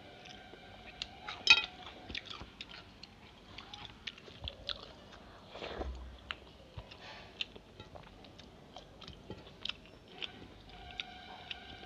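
Close-up eating sounds: wet chewing and small mouth clicks as hand-mixed rice and egg curry is eaten. One sharp ringing clink about a second and a half in is the loudest sound.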